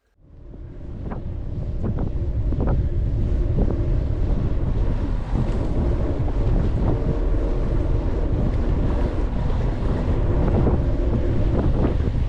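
Wind buffeting the microphone of a moving bicycle, a steady low rumble that fades in over the first couple of seconds, with light rattles and ticks from the bike on the road underneath.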